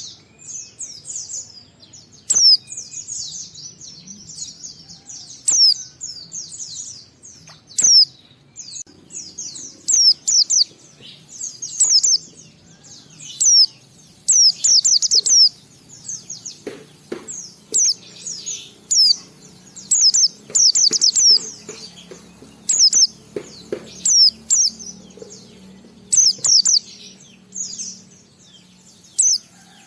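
Pleci (white-eye) singing: rapid, high, twittering warbled phrases of a second or two, repeated with short pauses.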